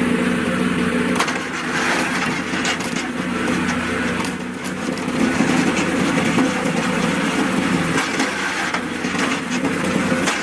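A wood-splitting machine running steadily, with wood cracking and splintering irregularly over it as logs are split.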